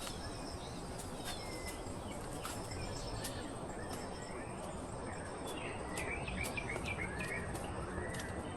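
Tropical forest ambience: a steady high insect drone over a constant background hiss. Small birds chirp in short rising-and-falling calls, most often in the second half.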